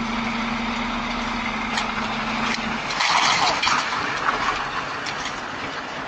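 A vehicle running with a steady noisy rush. A steady hum stops about three seconds in, and the noise grows louder for about a second after that.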